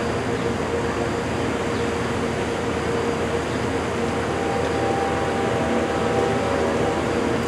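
Steady mechanical drone from an Amtrak passenger train with P42DC diesel locomotives, with a few faint steady tones in it and no change in level.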